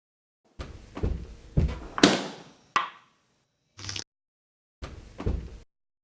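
A string of separate sound effects: several thumps and knocks, a sharp click, a short hiss near four seconds and a final thud, each cut off cleanly into silence.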